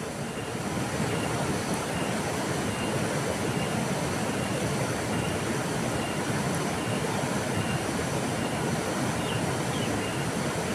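River water flowing, a steady rushing with no breaks. Faint short high chirps repeat evenly through it.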